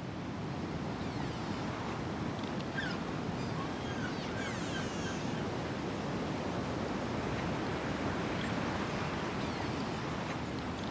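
A steady rushing natural ambience, like surf, with faint high chirping animal calls now and then.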